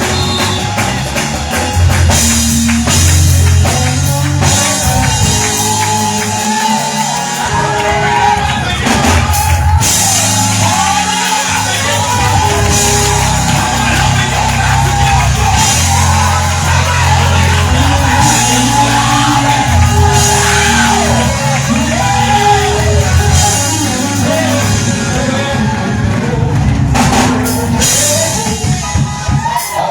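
Live gospel music: a band with drums and bass guitar playing under a singer's voice, with held bass notes changing every second or two.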